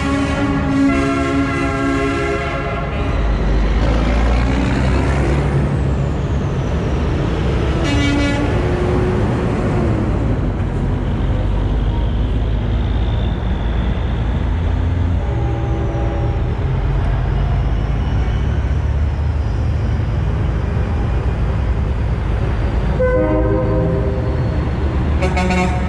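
Trucks rolling past in convoy with their diesel engines running, and air horns blowing four times: a long blast at the start, a short one about eight seconds in, another about fifteen seconds in, and a long one near the end.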